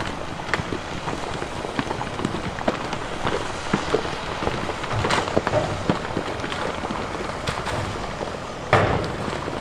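Rock and gravel crackling and clattering as heavy earthmoving machinery works stone, with a faint engine running underneath and one louder crash near the end.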